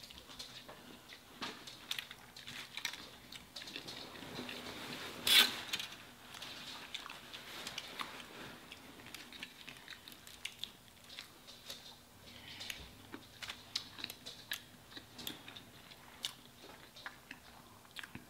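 Chewing and biting into a burger and french fries, heard close up as many short wet clicks. One sharper, louder noise about five seconds in.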